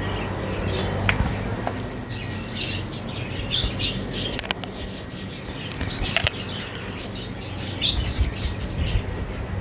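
Many small caged birds chirping in quick, overlapping calls over a steady low hum.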